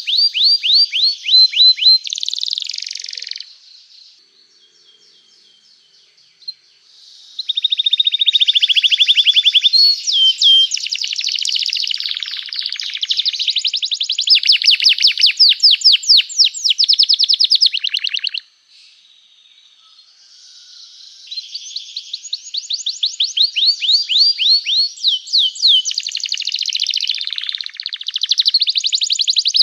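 Domestic canary singing in long phrases of rapid, evenly repeated high chirps and trills. Three bouts are broken by pauses of a few seconds, about a quarter and about two-thirds of the way through.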